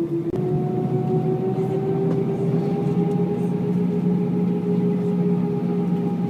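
Airbus A319 heard from inside the cabin on the ground: a steady hum and whine of the aircraft's machinery. A click comes about a third of a second in, then the whine steps up in pitch and keeps slowly rising.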